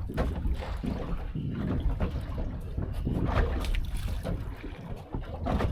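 Wind buffeting the microphone over a boat on open water, with short irregular water splashes and slaps.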